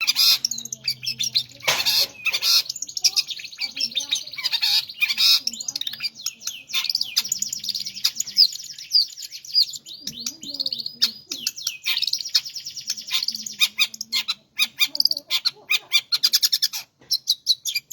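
A songbird singing almost without pause: fast, high chattering trills and whistled notes strung together, breaking off only briefly a couple of times.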